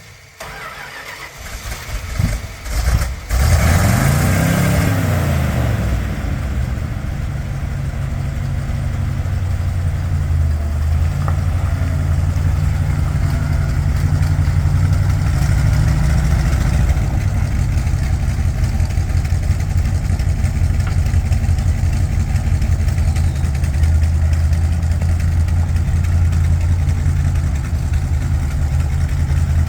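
1974 Dodge D600 grain truck's engine cranked over by the starter, catching about three seconds in, revving briefly, then settling into a steady idle.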